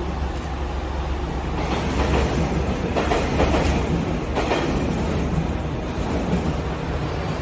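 Kawasemi Yamasemi diesel railcar train on the move: a steady low engine hum, with wheel and rail noise growing louder from about two seconds in.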